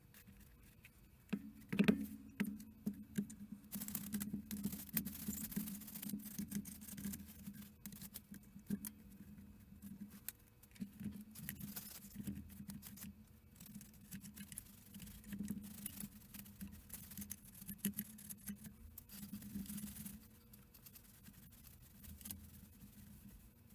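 Irregular small clicks, taps and scraping from handling a tablet and small tools on a workbench, with a louder knock about two seconds in.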